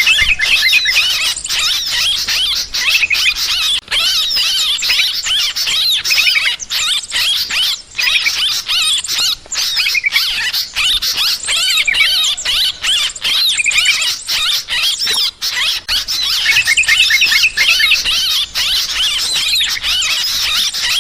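Yellow-vented bulbuls (trucukan) in a dense, agitated chorus of many overlapping chattering, chirping calls, the noisy 'ribut' call used as a lure to draw birds to a trap.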